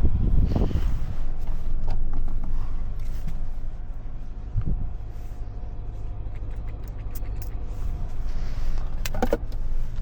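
Cabin noise of a pickup truck driving on snow: a steady low engine and road rumble, with a few knocks and clicks from inside the cab.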